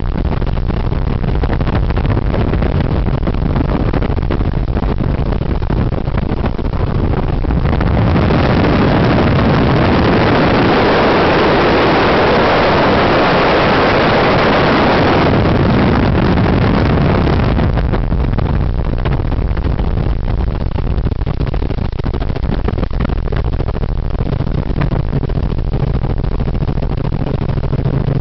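Helicopter in flight: steady engine and rotor noise with a low hum underneath. A louder rushing noise covers it for about ten seconds in the middle, then dies back down.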